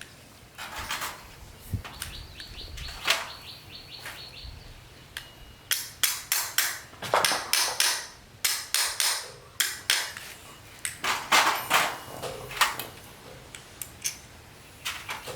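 Hammer blows and clinks on metal, in irregular runs of several quick strikes, as parts of an old petrol lawn mower are worked on.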